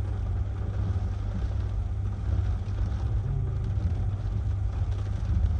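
Strong hurricane wind buffeting the microphone, a steady heavy low rumble with a fainter hiss above it.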